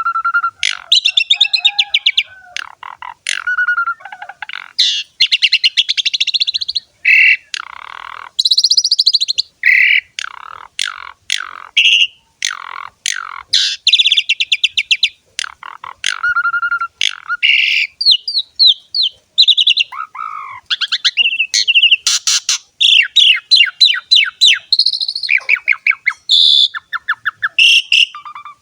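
Javan pied starling (jalak suren) in continuous, loud song: varied phrases of fast rattling notes, clear whistles and short gliding calls, broken by brief pauses.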